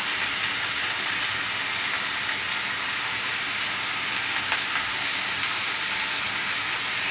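Chayote (chow chow) pieces sizzling steadily in hot oil in a kadai as grated coconut is added, with a few faint clicks.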